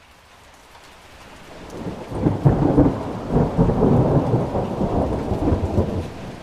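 Steady rain that grows louder, then a long rolling thunder rumble from about two seconds in, easing off near the end.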